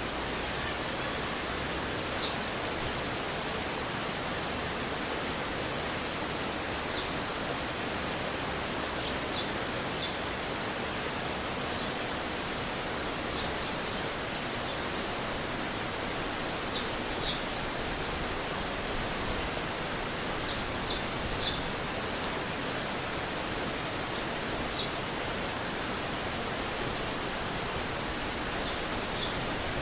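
Stream water flowing steadily, an even wash of noise, with faint short high chirps now and then.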